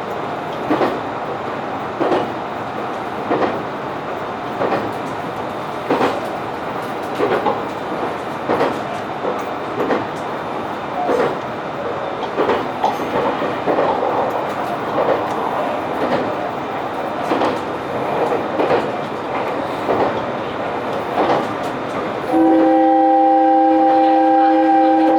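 A train running along the track, its wheels clicking over rail joints at a regular beat a little more than a second apart. Near the end the train's horn sounds once, a steady chord held for about three seconds.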